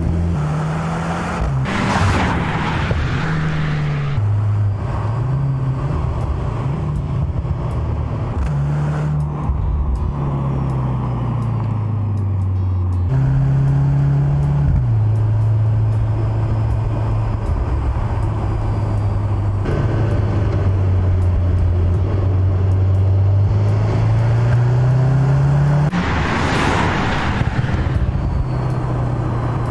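Mercedes-AMG C63 S E Performance's turbocharged 2.0-litre four-cylinder engine driving hard, its note repeatedly rising and dropping. A louder rush of passing-car noise swells about two seconds in and again near the end.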